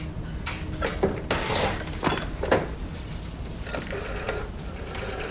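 A few sharp mechanical clicks and a ratcheting rattle in the first two and a half seconds, then a softer mechanical rattle near the end.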